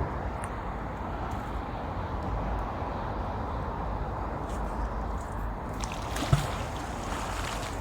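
River water sloshing as a magnet-fishing line is worked in the water, over a steady low rumble. A single thump comes about six seconds in, followed by a brief hissing splash.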